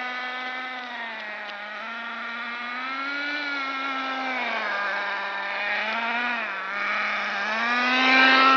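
Small .15 nitro glow engine of a radio-controlled car running with a high, buzzy note, its pitch dropping and rising several times as it is throttled, getting louder near the end.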